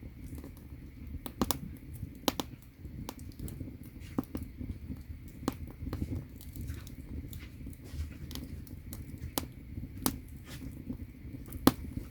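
Firewood burning in an agungi, the wood-fired firebox of a Korean ondol underfloor heating system: irregular sharp crackles and pops over a low steady rumble, with a louder pop near the end.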